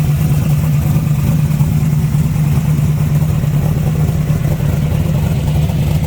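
468 cubic-inch big-block Chevy V8 with headers, idling steadily at a loud, even pitch.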